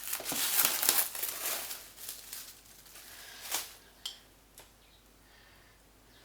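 Crinkling, rustling handling noise, densest in the first two seconds, then a few lighter rustles and two short clicks near the end.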